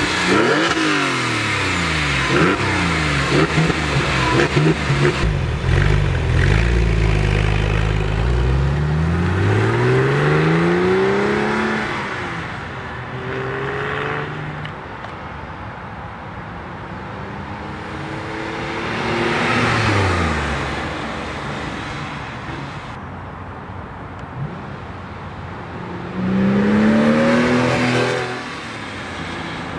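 Porsche 911 Carrera 4S's 3.6-litre flat-six under hard acceleration, the engine note climbing and dropping with each gear change over the first dozen seconds. It then falls quieter and swells again as the car drives past, loudest with a rising rev near the end.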